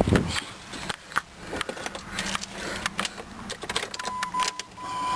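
Keys and small parts clicking and rattling during an attempt to start a Jeep Grand Cherokee off a jumper box, with no engine running. Near the end a steady high electronic beep sounds, faint at first and then loud; a bad jumper-battery connection turns out to have kept the engine from starting.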